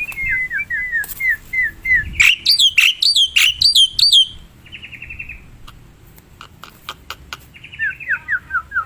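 Black-winged starling (jalak putih) calling: a run of short down-slurred whistles, then a louder volley of sharp, ringing notes, a brief buzzy trill, and another run of falling whistles near the end.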